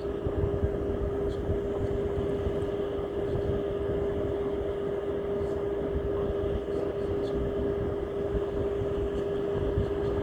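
A steady machine hum: one constant tone held over a low, fluttering rumble.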